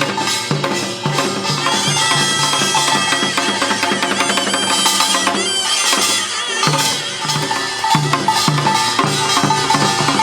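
Korean pungmul farmers' band playing: drums beat a steady rhythm with small gongs ringing, under a shrill double-reed taepyeongso melody that holds long, bending notes in the middle.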